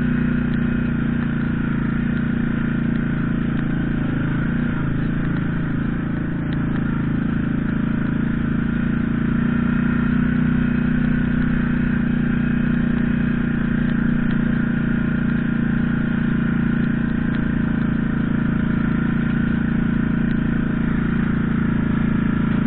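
Bugfaster BC-800's engine running at a steady speed, with a slight dip about six seconds in.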